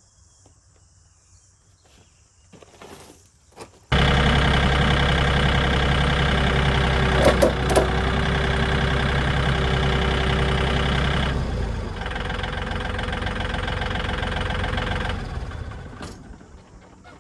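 Tractor engine running loud and steady while pulling on a car chassis, cutting in suddenly about four seconds in, with a couple of sharp clicks partway through; its deep low note drops away and the sound then fades out near the end.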